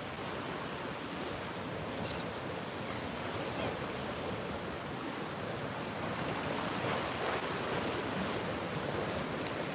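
Ocean waves washing and breaking, with wind buffeting the microphone; a steady wash that swells a little past the middle.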